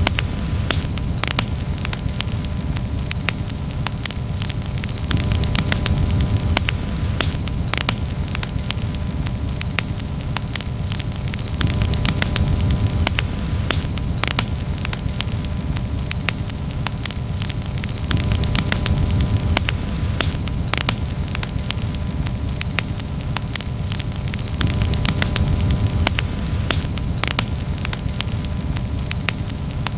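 Campfire crackling, with frequent irregular sharp pops over a steady low rush.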